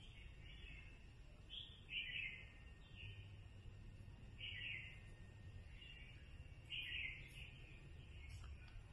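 Faint bird calls: short chirps repeating every second or so, over a low steady background rumble.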